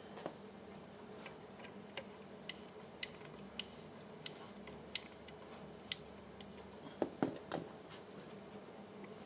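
A series of light, sharp clicks, roughly one every half second and not evenly spaced, over a faint steady hum.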